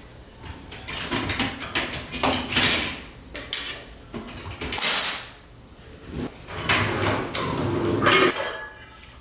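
Kitchen clean-up clatter: dishes, drawers and cupboard doors knocking and scraping in an irregular string of knocks and short rustling scrapes.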